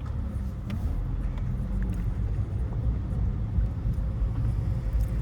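Low, steady car engine and road rumble, with faint rising and falling engine tones.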